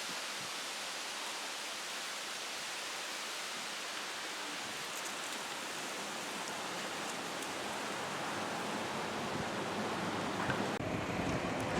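Steady rushing outdoor ambient noise, an even hiss without distinct events. Near the end the highest hiss drops away and a lower rumble comes up.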